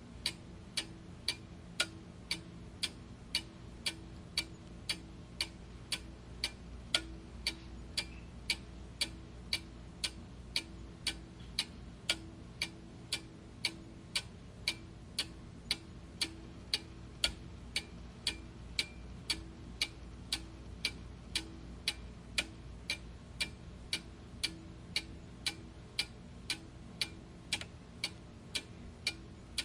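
Clock ticking steadily, about two ticks a second, with a faint low hum underneath.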